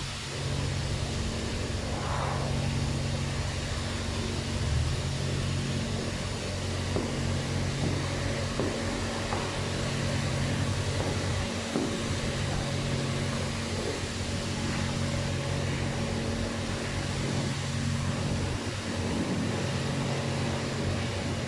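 Steady hum and hiss inside a Mitsubishi Pajero's cabin: the engine idling with the air-conditioning fan running.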